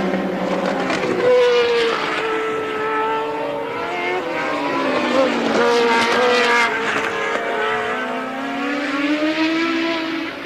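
1983 Formula One race cars at speed, several engines running at once, their pitch jumping and gliding up and down through gear changes and passes.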